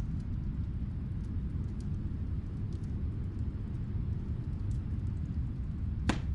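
Low, steady snowstorm wind noise, with sparse faint crackles of a fireplace heard from another room and one sharper pop near the end.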